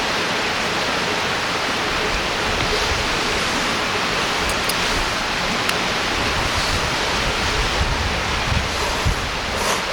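River water rushing, a steady even hiss, with a few faint clicks and some low bumps in the last few seconds.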